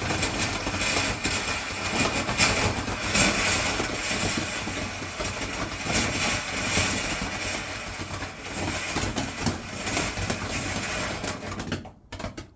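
Bonfire fountain firework burning, a steady spray hiss with scattered crackles, which cuts off suddenly near the end.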